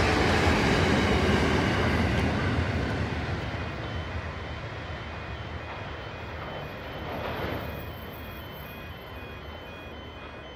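Container freight train's rumble and wheel noise fading as its last wagons pass and it draws away down the line. From about three and a half seconds in, a repeating electronic warning beep sounds over the fading train.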